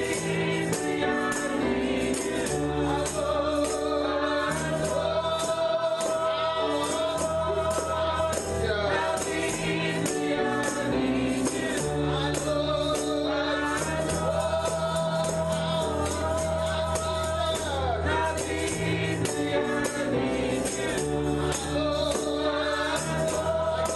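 Gospel music: a choir singing over held bass chords, with a tambourine shaken on a steady beat throughout.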